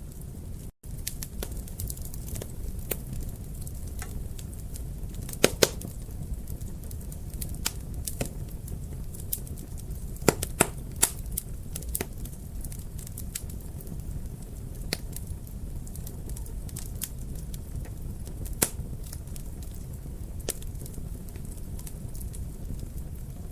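Wood fire burning in a fireplace: a steady low rumble of flames with irregular crackles and sharp pops of burning logs, the loudest pops clustered about five seconds in, around ten to eleven seconds, and near nineteen seconds. The sound drops out for an instant about a second in.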